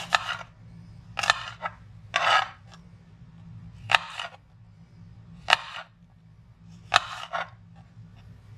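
Sharp knife cutting through apples: six separate cuts, each a sharp crunchy scrape, one every second or so.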